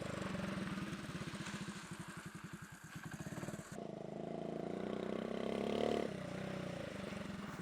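Motorcycle engine idling with an even, rapid putter, briefly revved up partway through before it falls back to idle.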